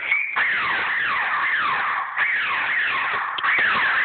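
Laser tag blaster firing: a quick run of falling electronic zaps, about two a second, with short breaks between bursts.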